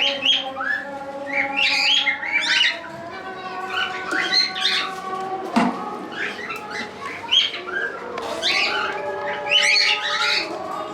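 Many caged cockatiels chirping and squawking at once, with one sharp knock about halfway through.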